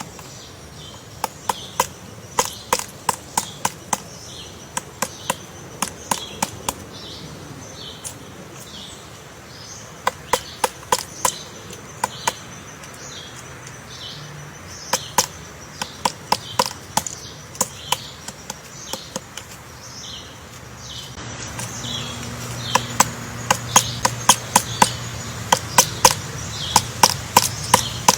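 Woodpecker chiselling its nest hole in a tree trunk: sharp knocks on wood in short runs of several quick strokes, with pauses between runs. The knocks get louder in the last quarter.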